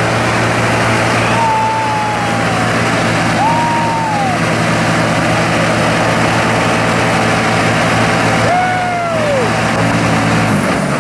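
Ford F250 mega truck's engine held at high, steady revs with a rushing noise over it, consistent with its tractor tires spinning. A few short high tones rise and fall above the engine, and near the end the revs drop.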